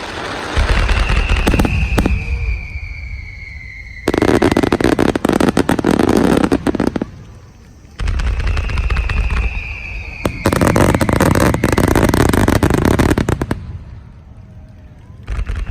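Fireworks shells launching, each with a deep thump followed by a whistle that slowly falls in pitch, then breaking into about three seconds of dense crackling. This happens twice, and a third launch thump comes near the end.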